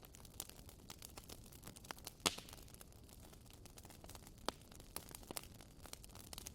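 Wood fire burning in an open fireplace: sharp, irregular crackles and pops over a faint hiss, with the loudest pop a little over two seconds in.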